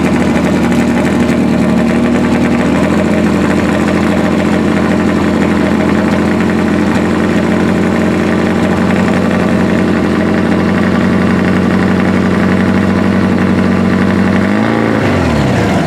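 Turbocharged VW Beetle engine idling steadily on its first run. Near the end it is switched off, its pitch falling as it winds down to a stop.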